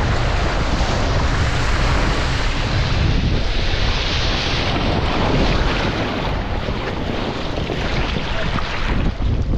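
Strong wind buffeting the microphone in a heavy rumble, over the rush of water around a Laser sailing dinghy sailing in high wind. The hiss grows brighter for a moment about four seconds in.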